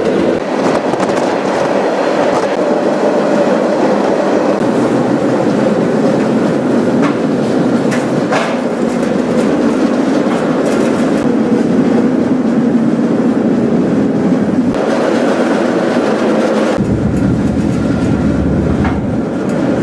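Freight train rolling along, heard from inside an open gondola car: a steady, loud rumble and rattle of the car's wheels and body on the track, with a few sharp clanks midway and a deeper low rumble coming in near the end.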